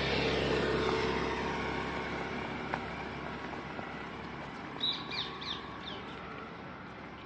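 A road vehicle passing by, its noise loudest at the start and slowly fading away. A few bird chirps about five seconds in.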